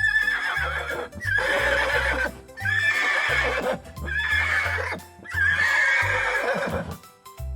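Horse neighing five times in a row, each whinny about a second long, over background music.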